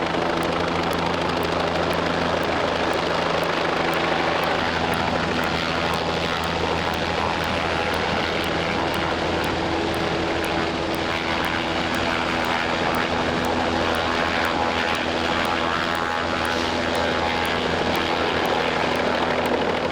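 Fire department rescue helicopter hovering overhead: a steady rotor and engine drone with a constant low hum over a rushing noise, unchanging throughout.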